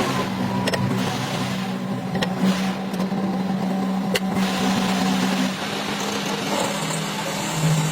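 Excavator engine running steadily with an even, pitched hum. A few sharp clicks or knocks sound over it in the first half.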